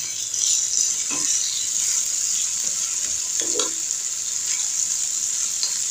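Potato and pointed gourd pieces sizzling in hot oil in a kadai, a steady high hiss, as a wooden spatula stirs them, with a couple of short scrapes near 1 s and 3.5 s.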